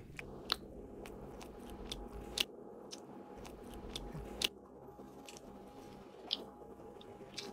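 A man chewing food noisily with his mouth open: wet smacking and crunching clicks at an irregular pace, over a faint steady low hum.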